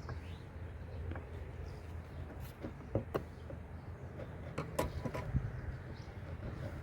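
A few light clicks and knocks from handling the pipe and container while petrol is drained from a lawnmower, over a steady low hum.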